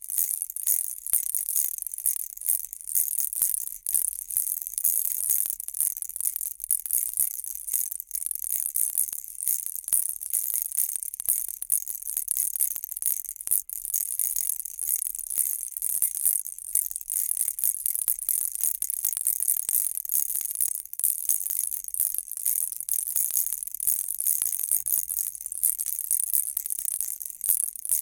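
Baby rattle shaken continuously, a bright, dense rattling that swells and dips unevenly a few times a second.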